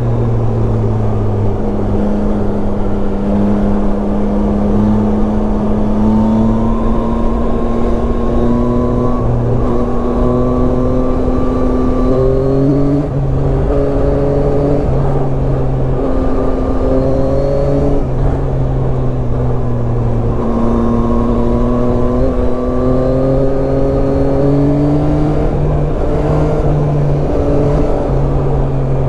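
Yamaha Tracer 9's three-cylinder engine running under way, its pitch climbing slowly and dropping back several times, most sharply about 13 and 20 seconds in. A steady rush of noise runs underneath.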